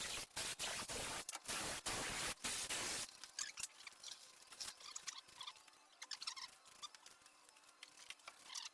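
Rough scraping or rubbing of a tool on metal parts in quick strokes for about three seconds, then scattered light clicks and taps of parts being handled.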